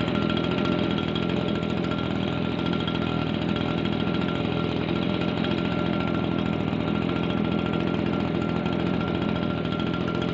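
Small petrol engine running steadily at a constant speed, with a steady high whine over it.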